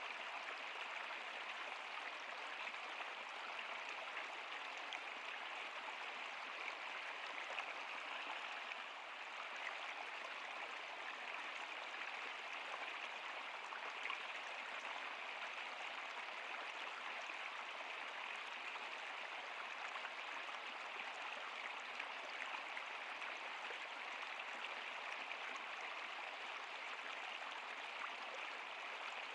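Flowing river water, a steady rushing hiss that does not change.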